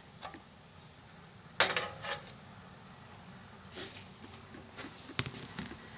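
A few clicks, knocks and clatters of hard parts being handled as a new air filter is fitted into the air cleaner housing of a John Deere 111 lawn tractor. The sharpest knock comes about a second and a half in and rings briefly.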